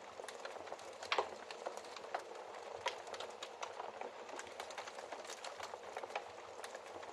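Wood fire crackling in a fireplace: a steady hiss full of small irregular snaps, with a louder pop about a second in and another near three seconds in.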